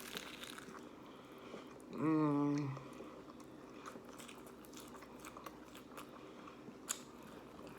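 A person chewing and biting into a lettuce wrap filled with chicken, close to the microphone, with small wet clicks and crunches of the lettuce. A short hum of the voice comes about two seconds in.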